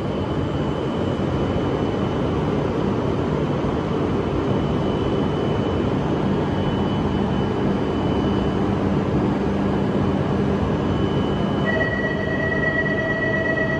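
E5/E6 Shinkansen train at an underground platform, giving a steady hum with a few faint steady tones. Near the end a steady high tone joins in.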